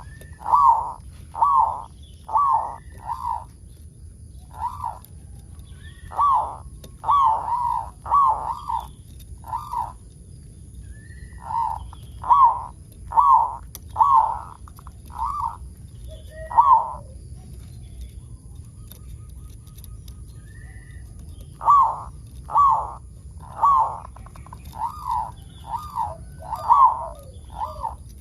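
Zebra dove (perkutut) singing its staccato cooing song: runs of short, clear coos, each with a quick rising flick. The runs are broken by pauses of a few seconds.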